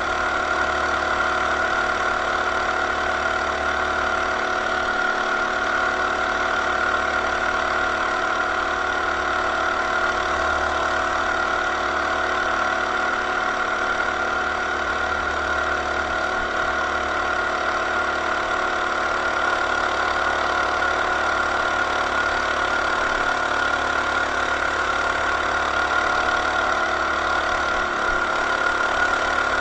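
Coleman BT200X mini bike's 196cc single-cylinder four-stroke engine running at a steady pitch, with no revving up or down.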